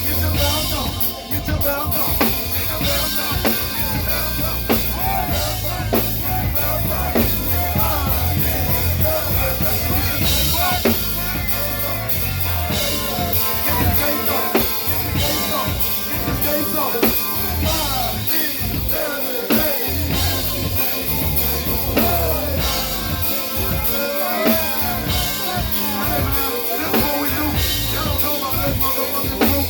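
A band playing with a drum kit and a strong bass line, with pitched voices or instruments over the top.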